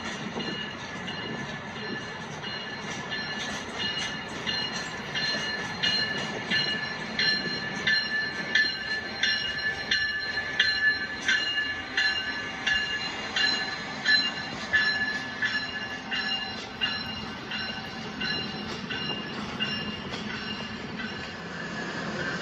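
A train rolling slowly through station trackwork. Its wheels squeal in steady high tones against the rails, with a regular click-clack of wheels over rail joints that grows louder toward the middle and then fades.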